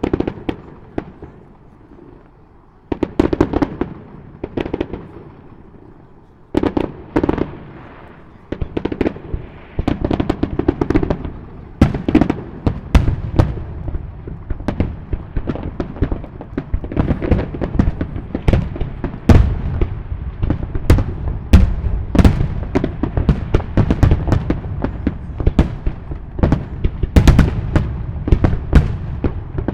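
Aerial fireworks shells bursting: sharp bangs with a rumbling tail, in separate clusters with short pauses at first, then from about twelve seconds in a rapid, continuous barrage of many bangs.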